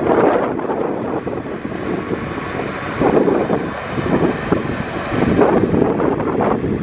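Heavy diesel earthmoving machinery working, its engine swelling and easing under changing load, with a rattling clatter throughout. The engine swells at the start, about three seconds in and again around five and a half seconds. Wind buffets the microphone.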